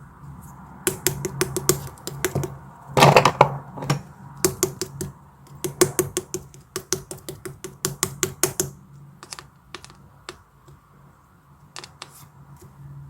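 Runs of quick, sharp taps and clicks, with a denser, louder crackling cluster about three seconds in, over a steady low hum. The clicks thin out over the second half.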